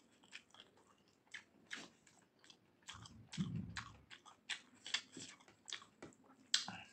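A person chewing a mouthful of meat and rice, with a string of short wet mouth clicks and smacks. A brief low rumble comes about three seconds in.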